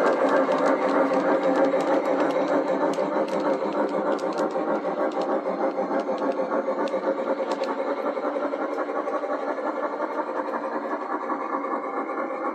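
MTH Challenger 3977 model steam locomotive's sound system chuffing steadily as the model ore train runs along the track, with wheels rumbling and occasional sharp clicks; it fades gradually as the train moves away.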